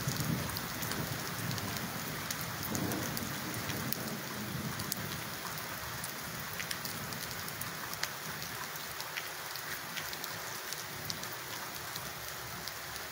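Rain falling steadily, with scattered sharp taps of drops striking close by. A low rumble of thunder fades away over the first few seconds.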